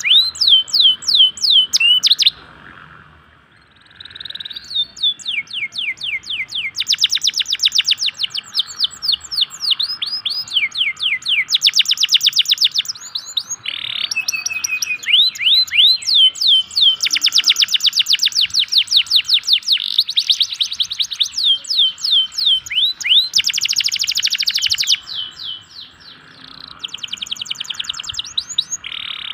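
Local canary singing a long, rapid song of repeated down-slurred notes and fast buzzy trills, broken by short pauses about two seconds in and again near the end. This is a lure song of the kind played to prompt reluctant canaries to sing.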